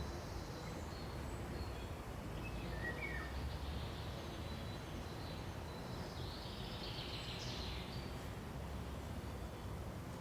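Faint forest ambience: a steady low rumble with scattered bird calls. There is a short chirp about three seconds in and a longer phrase of song at about six to seven seconds.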